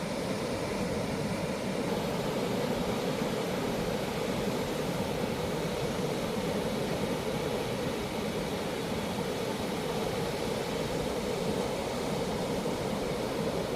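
Ocean surf breaking on a beach, heard as a steady, even rushing noise with no single wave standing out.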